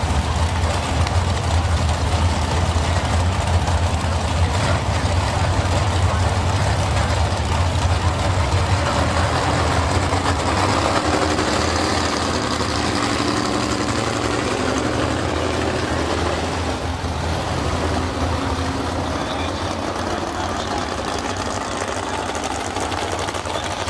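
A heavy engine idling with a steady low rumble. About ten seconds in, a second engine's higher, pitched note joins it and fades out again after several seconds.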